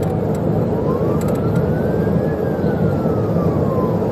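Police siren on a slow wail, one long rise and fall over a few seconds, heard over loud road and engine noise from a patrol car at high speed.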